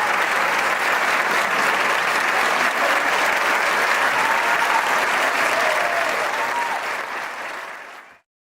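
Audience applauding with a few whistles and cheers. The applause fades and cuts off near the end.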